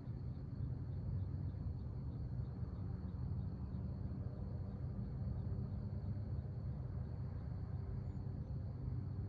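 Outdoor backyard ambience: a steady low rumble under a thin, steady high insect drone, with faint regular insect chirps, about two or three a second, that fade out about six seconds in.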